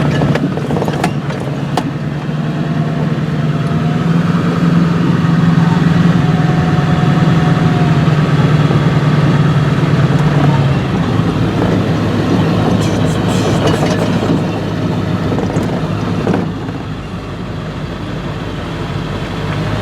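Vehicle engine and road noise heard from inside the cab while driving, with a few clicks and rattles. The engine note drops lower about eleven seconds in, and the sound gets quieter a few seconds before the end.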